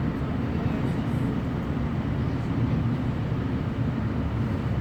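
Steady low diesel rumble and running noise inside a Class 156 Super Sprinter diesel multiple unit.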